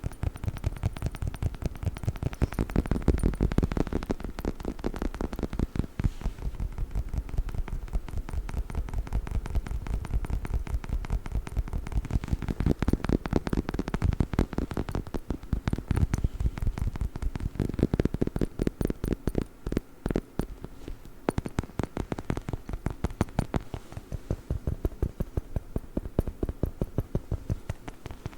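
Rapid, steady tapping and scratching with fingernails on a rubber dog chicken toy, many soft clicks a second.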